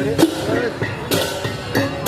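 Balinese gamelan music: metallophone tones ringing over repeated clashes of small cymbals (ceng-ceng).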